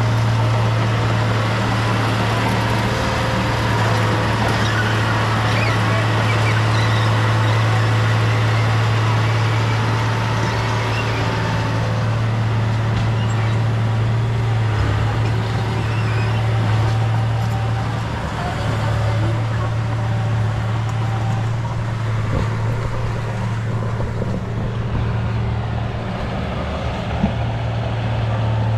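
Heavy diesel engine of earth-moving equipment, most likely the bulldozer, running steadily under load with a deep even hum and mechanical clatter.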